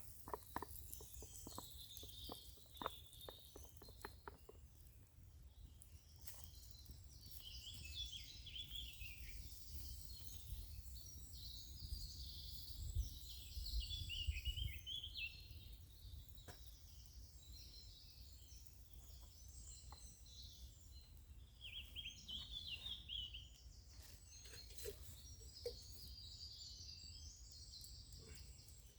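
Birds singing in woodland, with wavering high chirps coming and going. A few sharp clicks in the first few seconds and a steady low rumble underneath.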